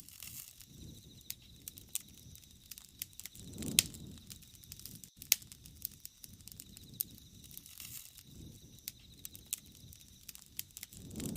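Wood fire crackling, with irregular sharp pops over a low flame rumble that swells about four seconds in and again near the end.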